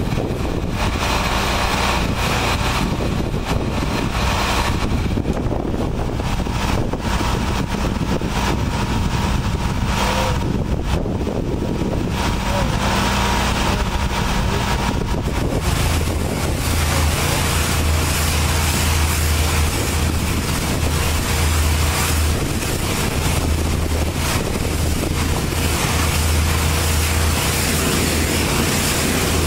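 Automated touchless truck wash running: steady machinery noise with a hiss of spraying water. About halfway through, a deeper hum comes in and the spray hiss grows fuller.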